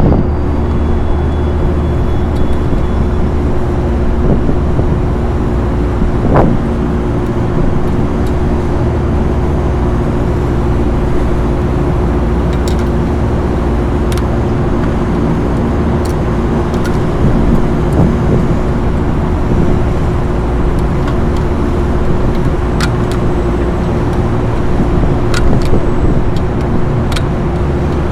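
Steady mechanical drone with a constant hum, and a few faint sharp ticks scattered through it.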